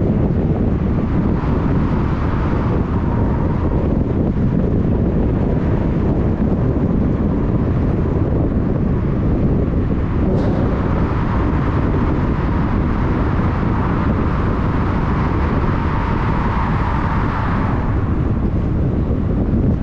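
Steady, loud rumbling noise with no pause, like wind buffeting the microphone. A faint higher hum rises in the second half.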